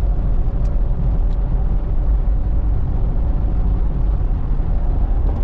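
Steady road and engine noise heard inside a vehicle's cabin while driving at highway speed, a constant low rumble.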